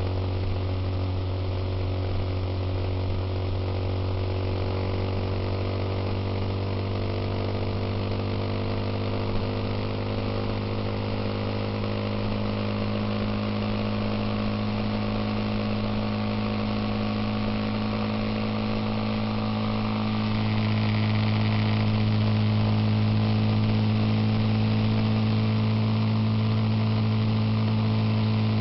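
Suzuki Intruder motorcycle engine running at a steady pitch on the road, with rushing noise above it. It gets louder about two-thirds of the way through.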